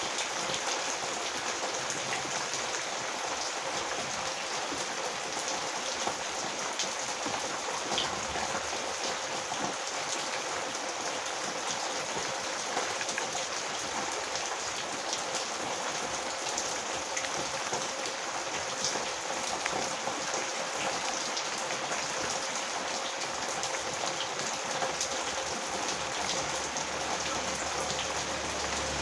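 Heavy rain falling steadily, with many small drop ticks on hard surfaces.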